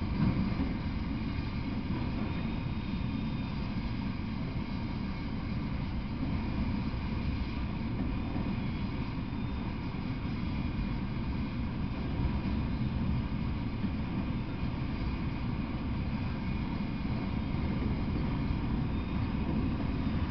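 Freight train of autorack cars rolling past, a steady low rumble of wheels on the rails.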